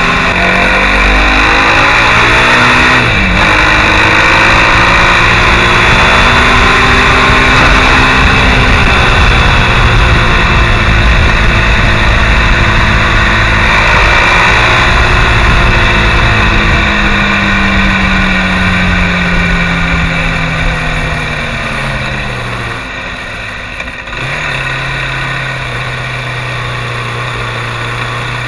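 Mondial SMX enduro motorcycle engine under way, its pitch climbing and falling with the throttle and a dip about three seconds in, like a gear change. Wind rushes over the microphone at speed. Near the end the bike slows, it gets quieter, and the engine settles to a steady low note.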